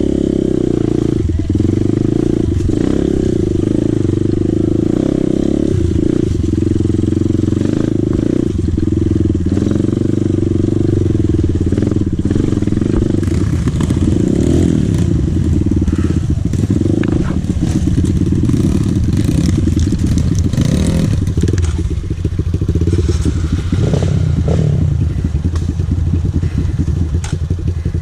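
Dirt bike engine running under throttle while riding, its pitch rising and falling, with short knocks and rattles from the bike over rough ground.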